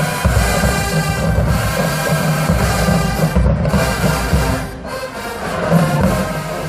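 HBCU marching band playing loudly: a brass section holding sustained chords over heavy bass drum and percussion, with a brief drop in volume about five seconds in.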